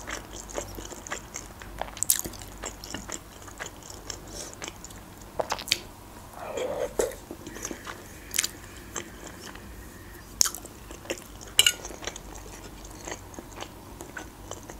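A person chewing mouthfuls of beshbarmak, soft boiled flat noodles with meat, close to the microphone: scattered wet mouth clicks and smacks at irregular moments.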